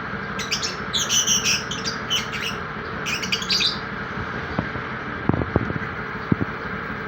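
Lovebirds chirping and squawking in quick runs of short, shrill calls during the first few seconds. A few faint knocks follow a little past the middle.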